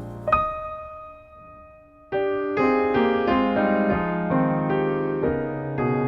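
Background piano music: a single note rings out and fades about a third of a second in, then a steady passage of repeated notes and chords starts about two seconds in.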